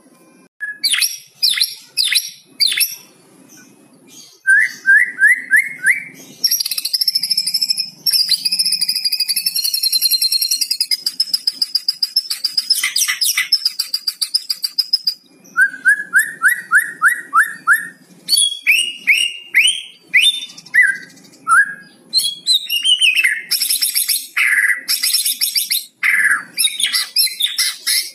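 White-rumped shama singing a varied song. It mixes runs of quick rising notes, a long high whistle and harsh rattling kretekan phrases.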